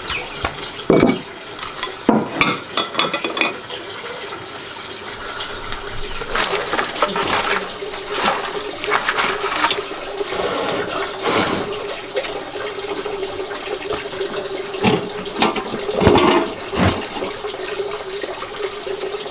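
Water running and splashing, with scattered knocks and clatter throughout.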